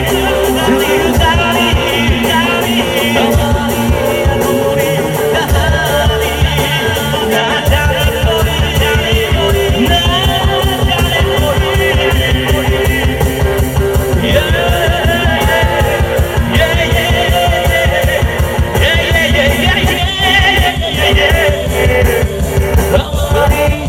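Live band music of a Bollywood mashup played loud through a PA system, with a melodic lead line over the accompaniment. A fast, steady drum beat comes in about seven seconds in.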